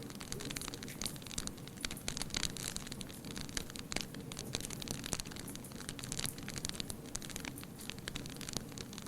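Wood fire crackling: a steady run of sharp pops and snaps over a soft hiss.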